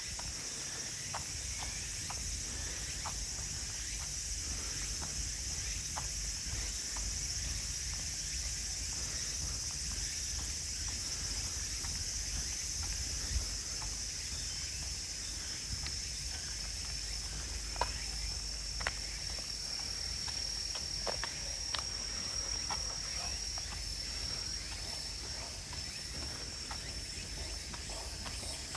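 Insects chirring steadily in a high-pitched band, with a thin, high, steady tone that dips slightly about 23 seconds in. Under it runs a low rumble, with scattered sharp ticks, some of them footsteps on the path.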